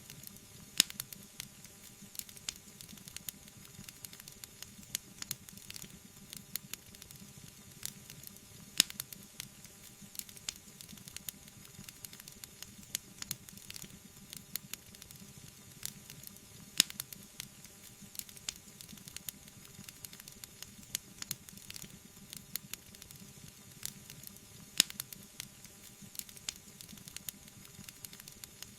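Wood fire burning in a fireplace, crackling and popping steadily, with a few louder pops about eight seconds apart.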